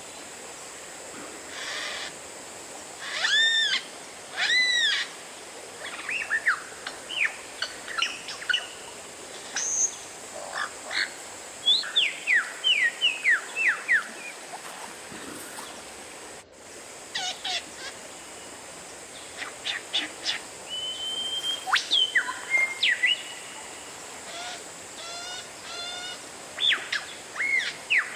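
Oriental magpie-robin (kacer) singing a varied run of loud whistled phrases: arched notes, quick downslurred chips and a few held whistles, over a steady background hiss.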